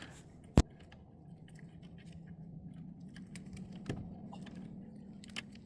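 One sharp click about half a second in, then scattered light clicks and ticks of hand tools and car parts being handled during wheel-hub and brake reassembly.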